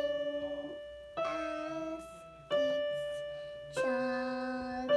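Piano-like keyboard playing slow chords, a new chord struck about every second and a quarter, each ringing and fading before the next.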